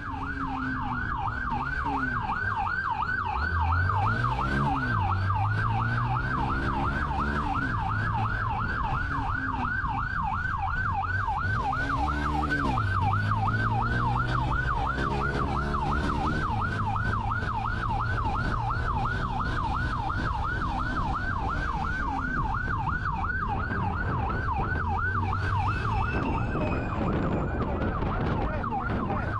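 Police car siren in a rapid yelp, its pitch sweeping up and down about four times a second without a break, with the patrol car's engine revving up and easing off underneath during a pursuit.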